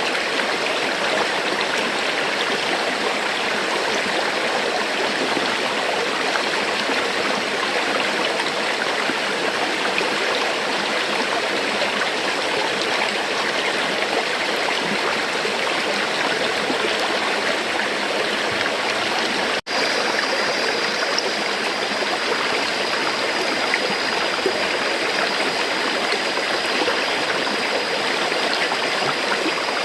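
River water flowing steadily, a continuous even rush with fine bubbling and gurgling. About two-thirds of the way through it drops out for a split second at an edit, and a faint high steady tone sits under the water after that.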